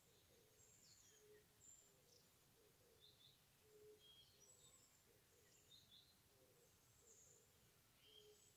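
Faint wild birdsong: scattered short high chirps and whistled notes, with a lower short call repeating about once a second.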